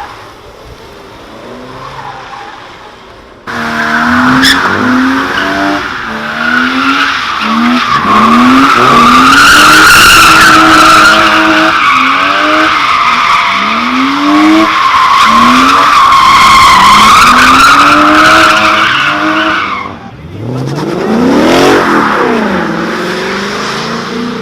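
A car doing donuts: tires squealing continuously while the engine revs up and down again and again. The squeal starts suddenly a few seconds in and stops about twenty seconds in, and the engine revs hard once more near the end.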